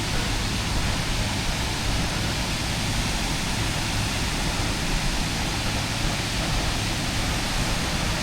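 Jagala Waterfall's water pouring over the drop, a steady, even rush.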